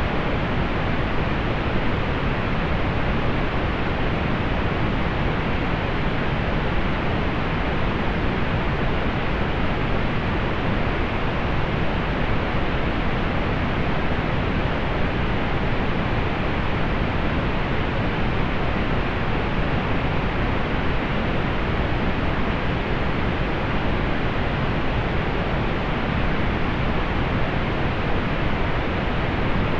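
Steady pink noise: an even, unchanging hiss weighted toward the low end, with the highs rolled off.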